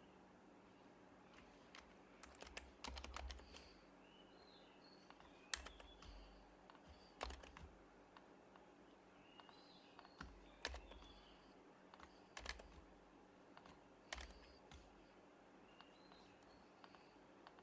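Sparse, soft keystrokes on an HHKB Professional Hybrid Type-S keyboard with silenced Topre switches, a few keys at a time with pauses between. Faint bird chirps sound in the background.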